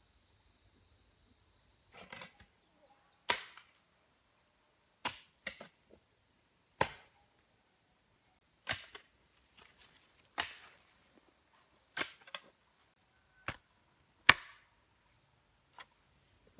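About a dozen sharp blows of a hand tool striking wood, coming irregularly about a second apart after a short quiet start; the loudest is near the end.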